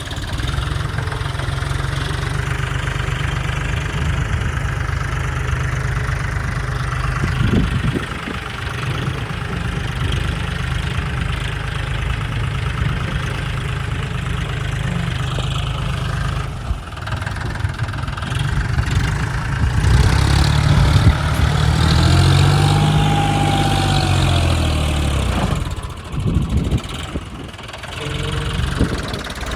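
Tractor's diesel engine running at a steady speed. About two-thirds of the way through it revs up and back down, with a thin whine that rises and falls along with it. The engine dips briefly near the end.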